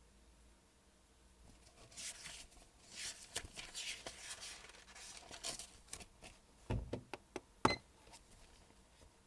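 Paper rustling and scratching for a few seconds, then a few knocks on a desk, the last and loudest a sharp clack of something hard set down.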